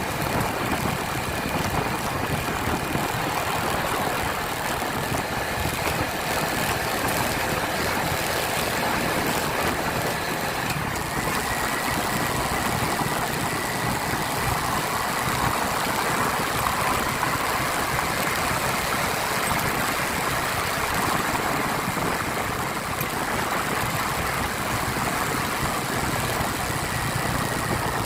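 Motorcycle engine running steadily while riding, under an even rush of noise.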